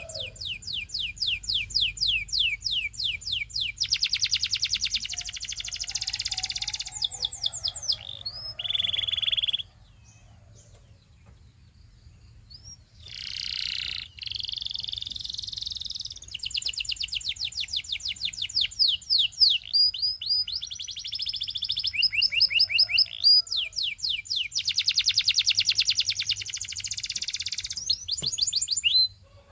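Domestic canary singing long trilled phrases of rapidly repeated high notes, some rolled very fast. The song breaks off for about three seconds about ten seconds in, then resumes.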